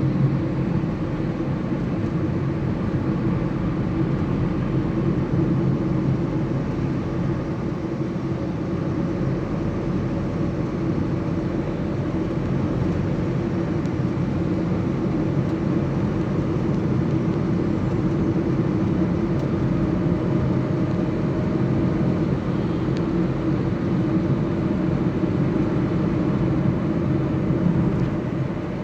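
Steady running drone of a moving vehicle, an even low hum with road or wind noise over it and no change throughout.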